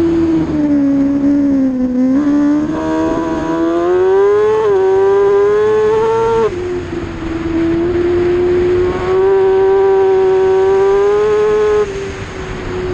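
Racing motorcycle engine running hard at high revs, its pitch climbing under throttle. The sharper upper tones cut off abruptly about six and a half seconds in and again near the end, while the engine keeps running.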